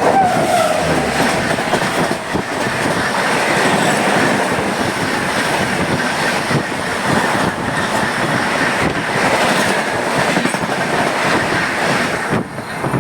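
Passenger train running along the track: a steady loud rumble and rush of wheels on the rails, with many quick irregular clicks from the wheels over the rail joints.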